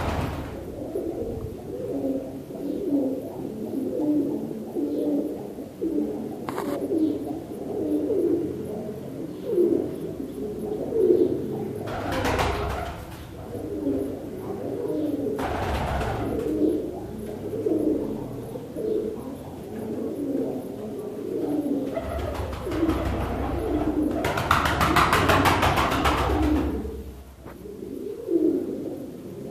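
Several pigeons cooing continuously, their low calls overlapping. A few short rushing noises cut across the cooing, the longest a few seconds near the end.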